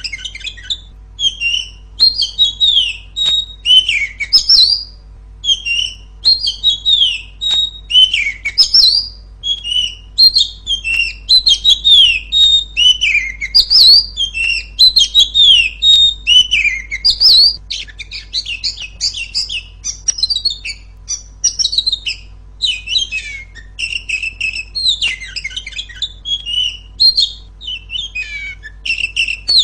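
Female oriental magpie-robin singing loudly: a rapid, unbroken run of short chirps, whistles and down-slurred notes.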